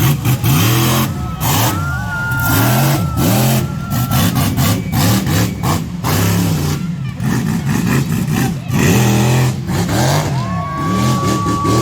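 Monster truck engine revving up and down over and over, its pitch rising and falling every second or so, with short sharp cracks throughout.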